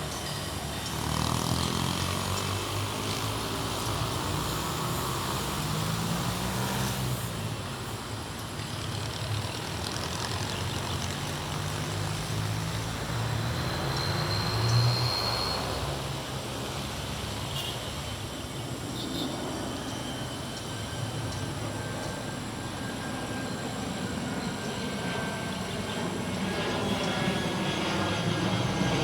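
The twin electric motors and propellers of a radio-controlled toy Boeing 787 flying overhead, a steady whine whose pitch rises and falls as the throttle and its distance change.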